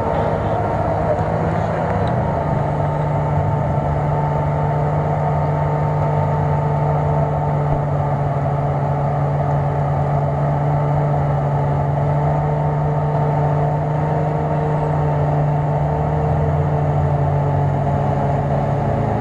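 Nissan Patrol engine running at steady revs under load as the SUV churns slowly through deep mud, a constant drone that holds one pitch throughout.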